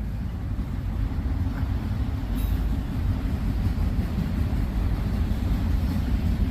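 Freight train's autorack cars rolling past, a steady low rumble of wheels on the rails.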